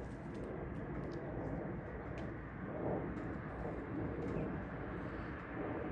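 Airplane passing overhead at a distance: a steady low rumble.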